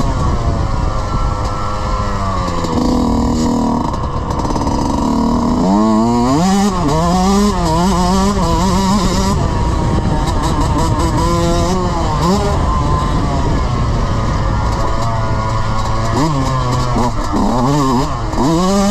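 Dirt bike engine being ridden hard off-road, revving up and dropping back again and again as the rider works the throttle, with steady wind and ground noise underneath.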